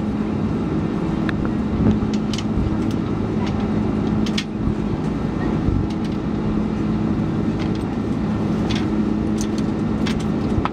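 Steady cabin noise of an Airbus A330-300 airliner in flight: engine drone and air rush, with a steady low hum and a few faint clicks.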